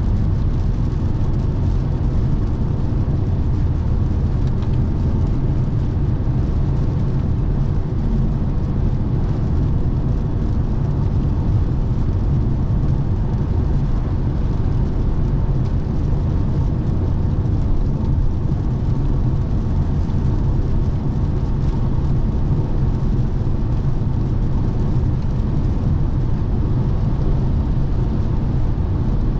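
Steady low road and tyre rumble of a 2017 Lexus NX 300h hybrid SUV cruising at speed on the autobahn, heard from inside the car, with no changes or separate events.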